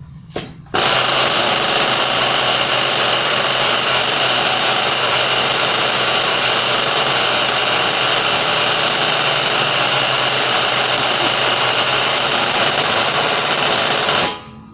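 Small nitro model engine of a radio-controlled bus running steadily while it warms up, running a bit rich. It starts abruptly about a second in and cuts off suddenly just before the end, with a short click just before it starts.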